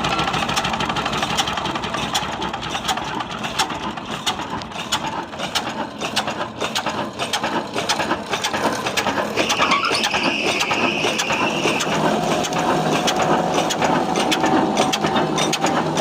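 Desi diesel engine running with a rapid, continuous mechanical clatter of knocks and clicks. Near the end a steady tone joins the clatter.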